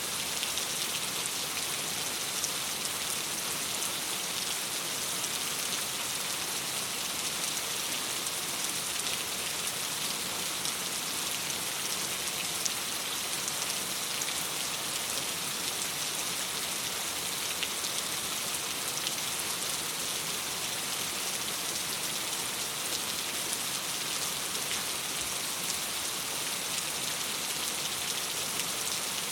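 Steady rain falling against a window: an even hiss with many small drop ticks and no change in strength.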